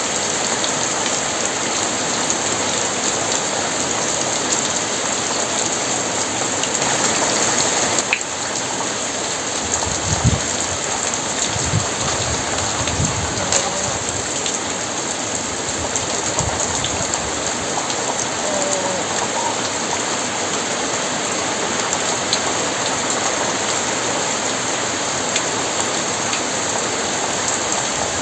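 Very heavy rain falling steadily. A low rumble of thunder comes in about ten seconds in and lasts several seconds.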